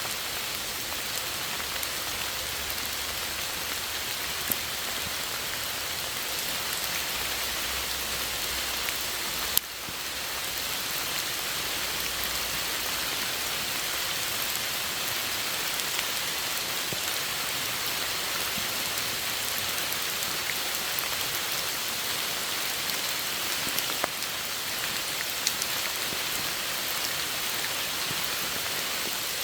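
Steady rain falling, an even hiss with a few sharper drop ticks, the sharpest about ten seconds in.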